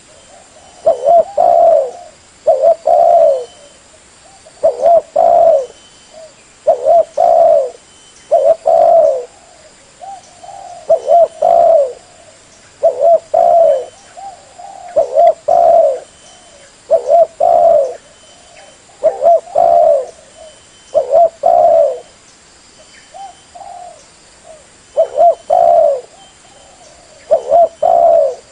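Spotted dove (tekukur) cooing: a low phrase of two or three coos, repeated about every two seconds.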